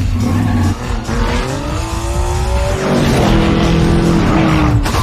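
Car engine revving hard in a film chase sound mix, its pitch climbing, dropping at a gear change about three seconds in, then climbing again before cutting off sharply near the end.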